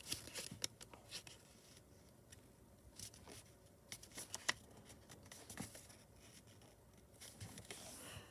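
A sheet of printer paper being folded and creased by hand: faint scattered rustles and crisp little crackles and clicks, the sharpest about halfway through.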